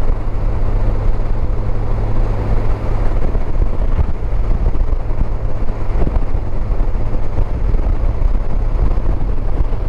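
Honda Gold Wing motorcycle cruising: a steady low engine hum under constant wind and road noise.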